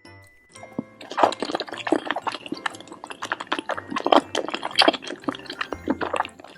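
Wet, crackly ASMR food sound effect, a dense run of quick irregular clicks and crackles like eating or pouring sauce, starting about a second in and stopping near the end.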